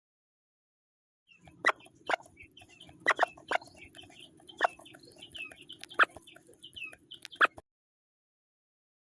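Chickens clucking, with short high calls and several sharp clicks, starting about a second in and stopping a second and a half before the end.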